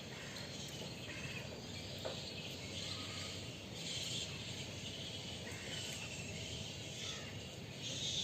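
Outdoor morning ambience: insects chirring steadily with scattered small bird chirps.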